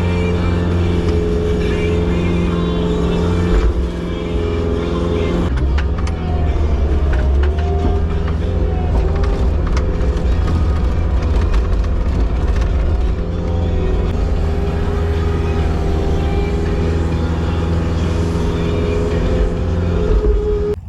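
Skid steer engine running under load, a steady machine drone whose pitch shifts and wavers from about five seconds in as the work load changes.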